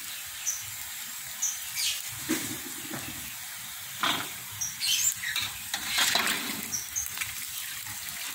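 Krupuk crackers frying in hot oil in an enamel wok, a steady sizzle. A metal slotted spatula scrapes and knocks against the pan several times in the middle.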